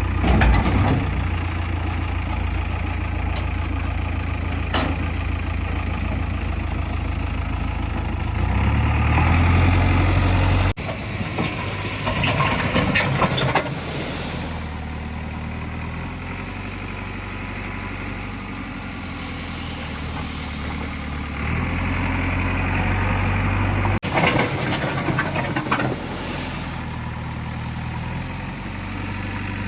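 Diesel engines of a JCB 3DX backhoe loader and a tractor running steadily, louder at times, with a few short clattering noises. The sound changes abruptly twice.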